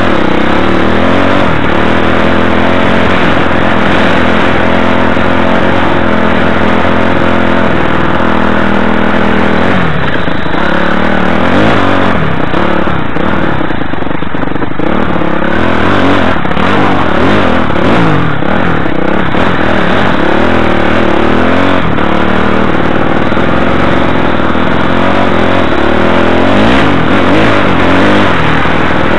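Enduro motorcycle engine running very loud under way, its pitch rising and falling as the throttle is worked on a rough grassy track.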